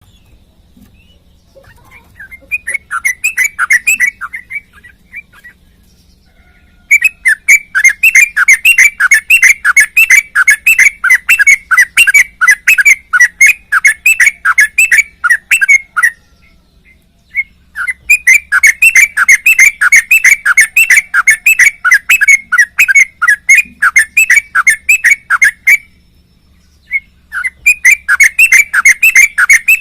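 Sooty-headed bulbul (trucuk) singing close up, long runs of rapid repeated whistled notes at about four a second, in four bouts with short breaks between them.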